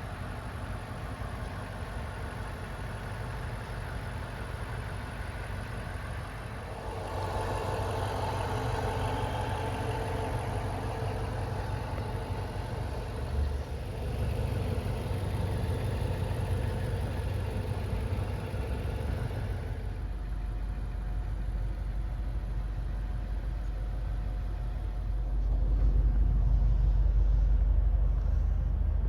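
Car engine running steadily with a low rumble, growing louder about seven seconds in and again near the end.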